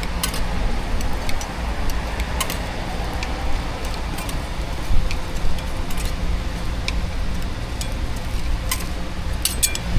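Steady low rumble with scattered light metallic clicks and clinks, typical of utensils being handled at a street food stall; a sharper cluster of clicks comes near the end.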